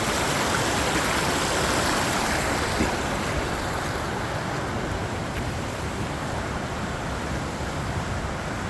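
Rushing water of a creek, a steady noisy wash that eases a little about three seconds in.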